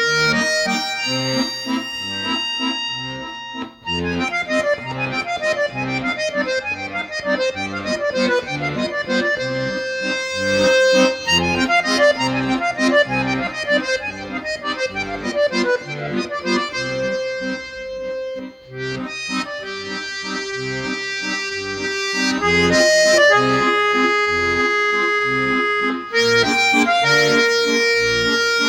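Bayan (Russian button accordion) playing a waltz: a held melody over a pulsing bass, with fast running passages in the middle.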